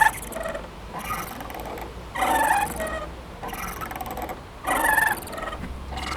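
Playground swing squeaking as it swings back and forth: a creaky squeak at each turn, the louder ones about every two and a half seconds with softer ones between.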